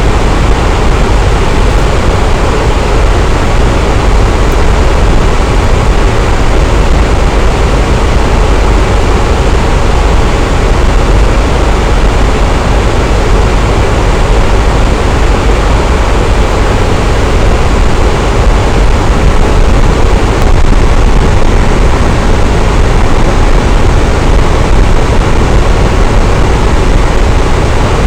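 Electric fan running steadily: a loud, even whoosh of moving air with a strong low rumble, unchanging throughout.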